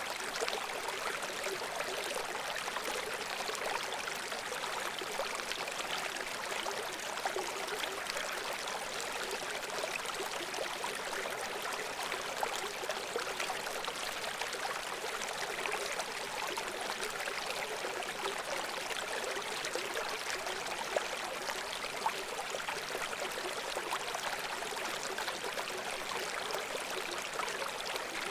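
Shallow brook babbling steadily over stones, a continuous trickling and splashing with small bright splashes flickering through it.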